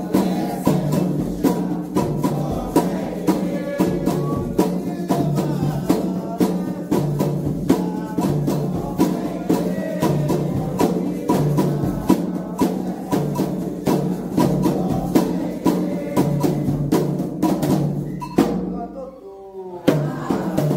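Candomblé ritual music: atabaque drums play fast, dense strokes under group chanting. Near the end the drums stop for about a second and a half while a voice goes on alone, then they come back in.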